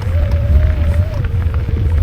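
Wind buffeting the microphone while riding a bike along a dirt trail, with rattling clicks from the bike and a steady whine that wavers in pitch.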